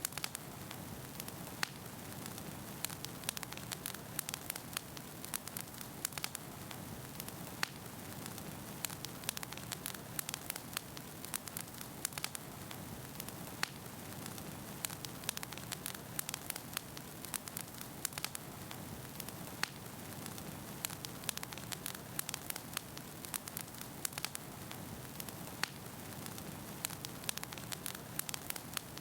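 Wood fire burning in a fireplace: a steady low rush of flame with frequent sharp, irregular crackles and pops from the burning logs.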